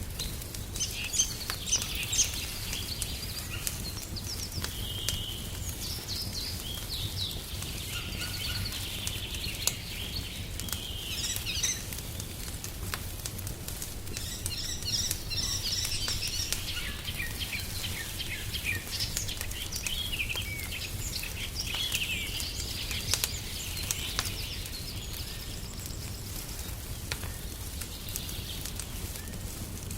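Songbirds chirping and singing over the scattered crackles and pops of a wood fire, with a steady low rumble beneath.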